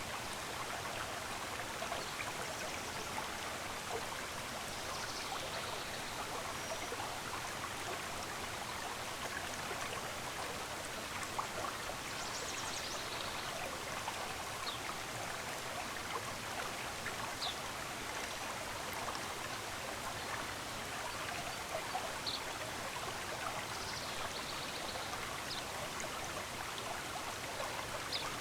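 Steady rush of flowing stream water, with brief faint high bird chirps scattered over it now and then.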